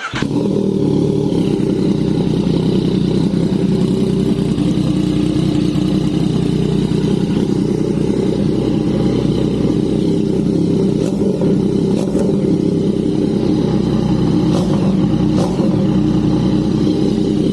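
Yamaha MT-09's inline three-cylinder engine catching right away and running at a steady idle through a full-system exhaust with a clone SC Project CRT muffler. A few brief sharp sounds come through in the second half.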